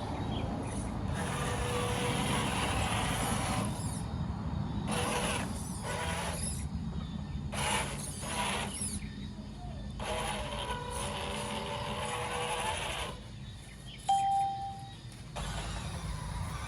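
Mini RC off-road cars driving, their small electric motors whining with a gritty noise under them, in several short stretches that start and stop abruptly. A brief, louder high tone sounds about 14 seconds in.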